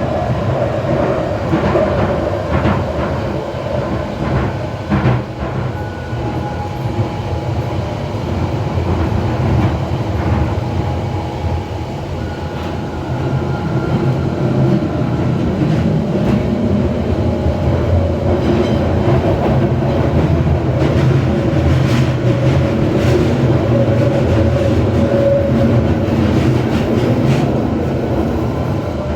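Waterloo & City line 1992-stock tube train running through its tunnel: a steady, loud rumble with faint whining tones that come and go.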